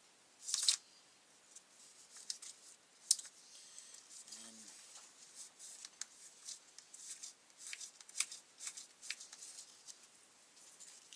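Scattered light clicks, taps and scrapes of hands working on a brush cutter's plastic recoil starter assembly while a new pull cord is fitted.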